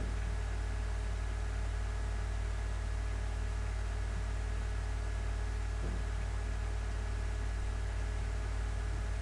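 Steady low hum with a faint hiss, unchanging throughout: background room noise with no distinct event.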